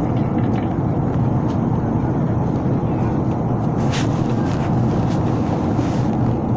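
Steady low rumble of an airliner's engines and airflow heard inside the passenger cabin, with a couple of faint clicks about two thirds of the way in.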